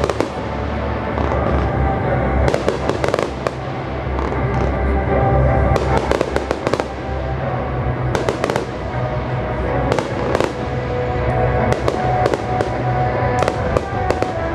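Aerial fireworks bursting in a rapid series of bangs and crackles, with music playing underneath.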